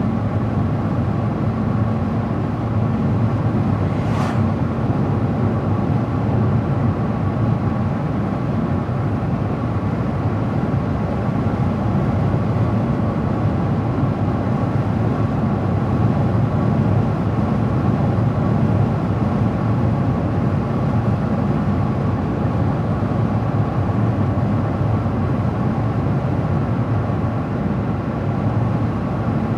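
A car driving steadily, with a low rumble of tyres and engine and a faint steady whine. A single brief tick comes about four seconds in.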